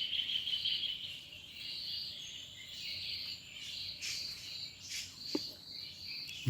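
A steady chorus of insects trilling in a high, pulsing band, with a few short bird chirps over it.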